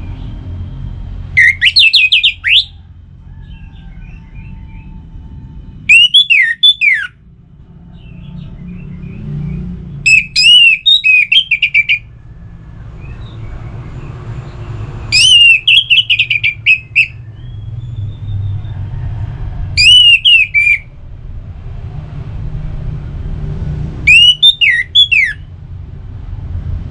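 Orange-headed thrush singing: six short, loud phrases of sharp whistled notes with quick pitch sweeps, one every four to five seconds, over a steady low rumble.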